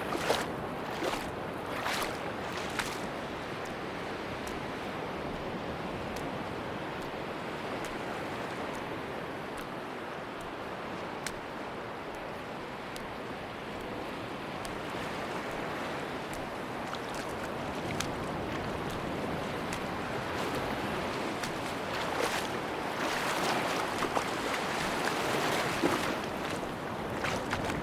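Sea waves washing onto a beach in a steady surf wash that swells louder near the start and again for several seconds from about two-thirds of the way in, with brief crackling fizz as the water breaks.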